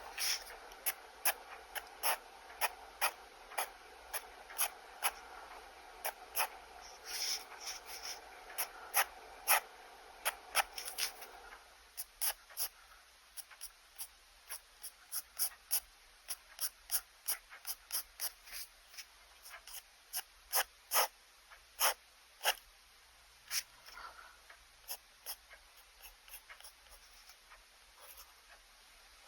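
Pen nib scratching across sketchbook paper in many short, quick strokes, irregular at a few a second, as lines and hatching are drawn.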